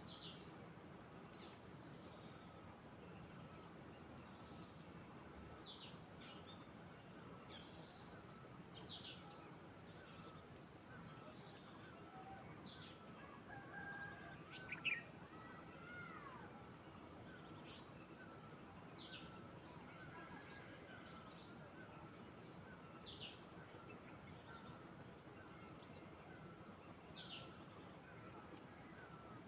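Birds calling: a series of short, high calls, each sweeping downward, repeating every second or two over a faint steady background, with softer chirps beneath and one louder call about halfway through.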